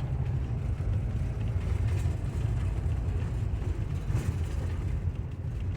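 Vehicle driving, heard from inside the cab: a steady low rumble of engine and road noise with a few faint rattles.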